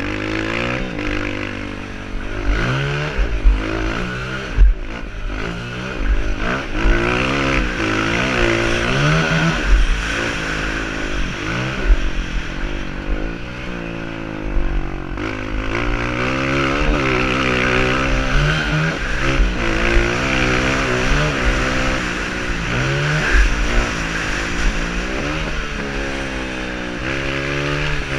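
Honda CRF230 single-cylinder four-stroke dirt bike engine revving up and easing off over and over as it is ridden hard around a motocross track, with wind buffeting and a few sharp knocks.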